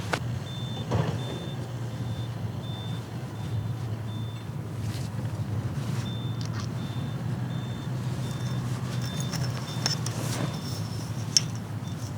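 A vehicle idling with a steady low hum, while a high electronic beep repeats about twice a second, pausing briefly a little before halfway. A few sharp clicks sound, one at the very start and one about a second in.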